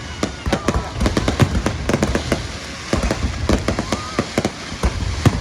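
Fireworks going off in rapid, overlapping bangs and crackles, several a second without a break.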